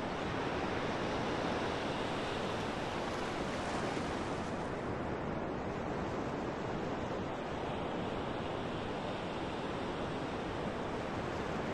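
Steady rush of wind and water, an even noise with no distinct events.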